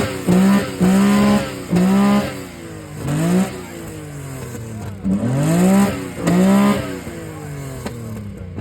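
Datsun 240Z's engine revved hard again and again: about six quick blips, each rising fast and levelling off at the top before dropping back, with a stretch of falling back towards idle in the middle.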